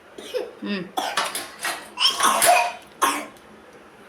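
A young child coughing repeatedly, about five short harsh coughs in a row, while eating popcorn and asking for water.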